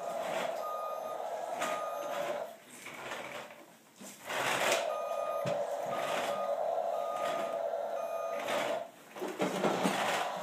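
A small motor whirring steadily with a light regular ticking, in two long runs with a short pause between them about three seconds in.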